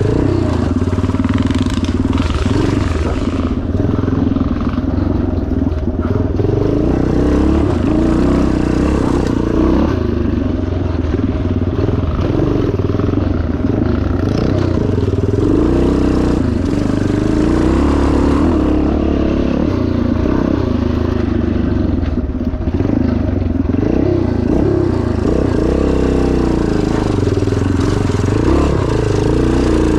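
1977 Yamaha TT500's single-cylinder four-stroke engine running hard under load, its revs rising and falling continuously as the bike is ridden off-road.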